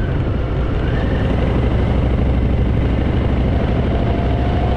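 Harley-Davidson Fat Boy's V-twin engine running steadily under way, with road and wind rush over it.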